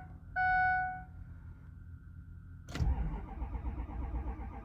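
A short in-cab warning chime sounds once, then about two and a half seconds in the 6.0 Powerstroke V8 turbodiesel cranks and fires on a cold start after sitting in sub-freezing weather, running rough and uneven.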